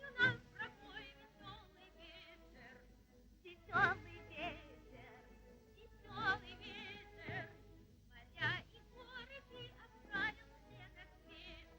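A high voice singing or warbling in short separate phrases, each starting sharply and wavering with a wide, fast vibrato.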